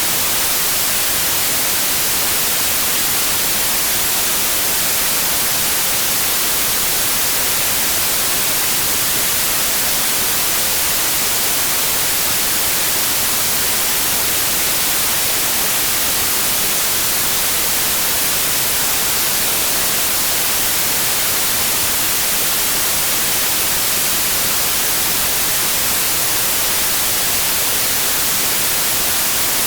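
Steady white noise: a loud, even hiss with no tones or changes, strongest in the high frequencies.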